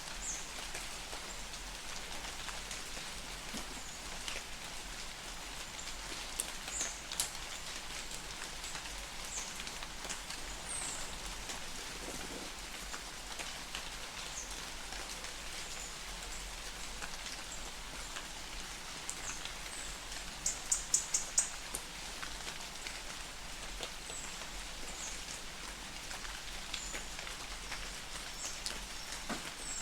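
Light rain falling in a forest, a steady patter of drops. Short, high bird chirps come now and then, with a quick run of about six chirps about two-thirds of the way through.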